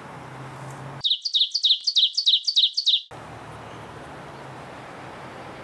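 A bird-chirp sound effect edited in over the recording: about ten quick, high, falling chirps in two seconds, with the outdoor background cut out while it plays. Before and after it there is a steady outdoor background hiss with a low hum.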